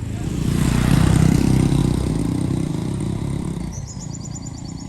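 A vehicle engine running with a low, pulsing rumble that grows loud about a second in and then fades away. Near the end, a rapid high chirping of about eight notes a second.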